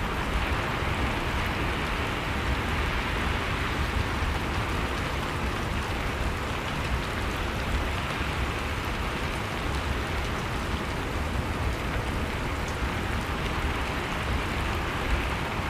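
Steady blizzard wind noise, an even unbroken rush, with faint crackles from a fireplace.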